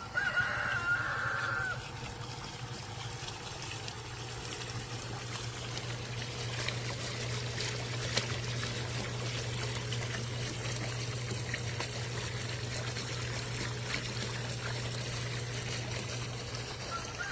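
Water from a pool waterfall fountain trickling and splashing steadily. A short high-pitched tone sounds over it in the first second and a half.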